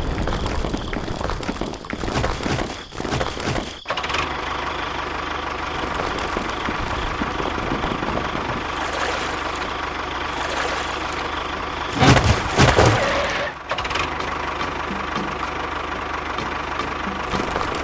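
An engine or motor running: uneven for the first few seconds, then steady, with a louder stretch about twelve seconds in.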